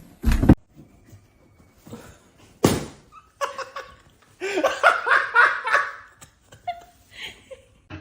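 A person laughing hard in a run of quick bursts from about three and a half seconds in, after two short sharp noises.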